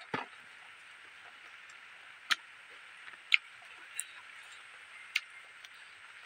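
Close-up eating sounds of a person chewing a mouthful of rice and fish: about five short, sharp mouth clicks and smacks at uneven gaps over a steady faint high hiss.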